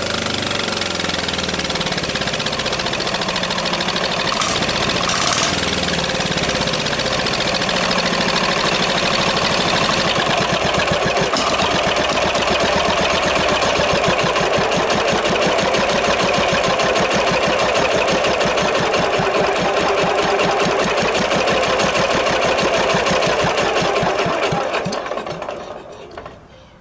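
Single-cylinder 10 hp 186F diesel engine (a Yanmar L100 clone) running straight-piped with no muffler, loud. About ten seconds in it is revved up to a faster, steady beat, and near the end it shuts down and winds to a stop.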